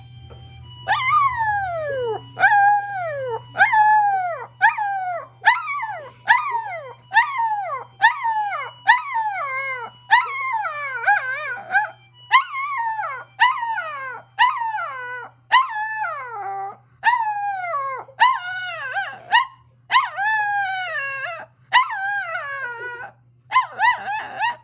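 Small pet dogs, a toy poodle and a Chihuahua–Maltese mix, howling in answer to an ambulance siren: well over twenty short howls in quick succession, each sliding down in pitch, at times overlapping.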